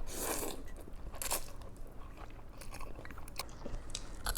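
Close-up biting and chewing of crispy fried chicken: crunching, loudest at the start and again about a second in, then smaller chewing crackles.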